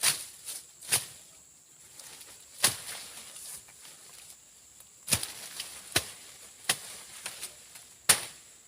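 Machete slashing through brush and undergrowth: about ten sharp cutting strikes at irregular intervals, some close together in pairs.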